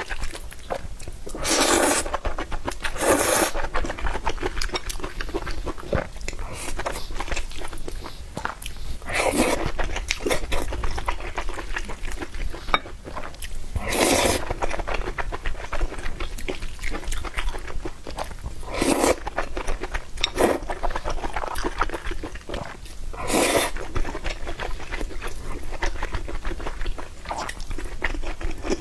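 Close-miked mukbang eating of spicy noodles: steady chewing with crunches, broken by about seven short loud slurps.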